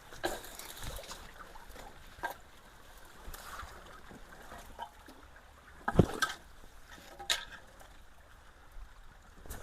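Water trickling and gurgling through a clogged culvert, with several sharp splashes and knocks as the debris blocking it is prodded, the loudest about six seconds in.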